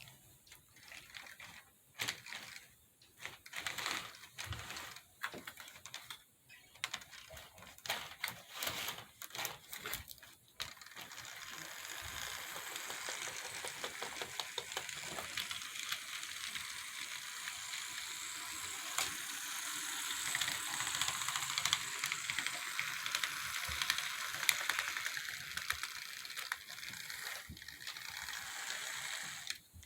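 HO scale model locomotive's motor and gears. For about ten seconds it runs in irregular clicks and short spurts, then it settles into a steady whirring rattle with rapid fine ticking.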